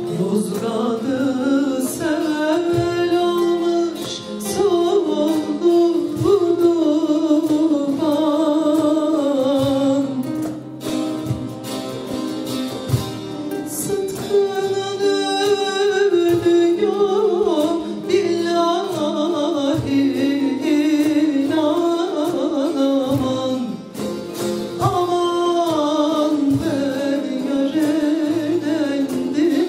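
A Turkish folk song (türkü) sung with ornamented, wavering melodic lines over plucked saz accompaniment, in phrases with short breaks between them.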